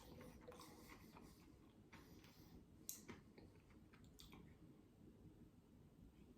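Near silence with a few faint clicks and mouth sounds from someone quietly chewing a crispy buffalo chicken wrap, the clearest click about three seconds in and another about a second later.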